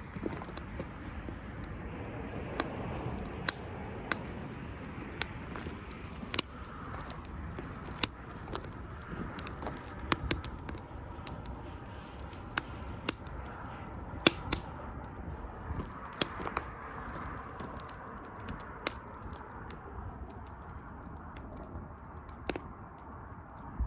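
Wood fire burning in a homemade pail-can secondary-combustion fire pit: irregular sharp crackles and pops over a steady rushing of the flames.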